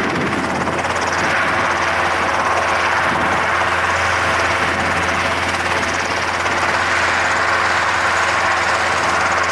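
Shorts Tucano T1's Garrett turboprop engine running steadily, a constant low hum under a strong whooshing hiss.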